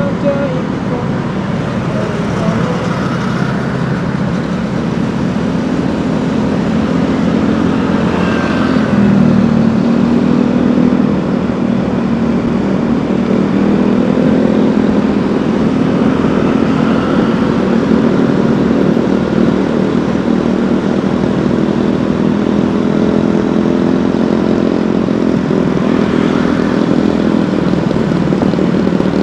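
Vehicle engine running steadily under way, with road and traffic noise, its pitch drifting slowly as the speed changes.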